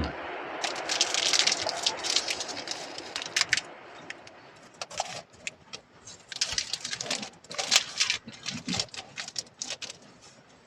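Bursts of crackling and light clicks from food cooking or being handled in a pan, as with a block of beef steak, coming in two main spells with quieter gaps between.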